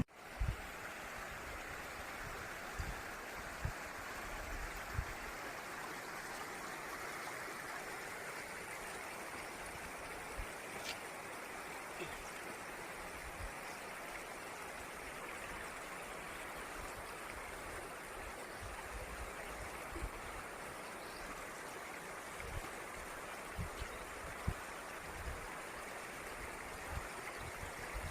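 Waterfall water rushing and splashing in a steady, even hiss, with a few faint low bumps scattered through it.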